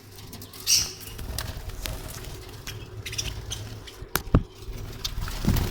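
Budgerigars moving about in their cage: scattered clicks and knocks, a brief wing flutter and a few short, high chirps over a low rumble.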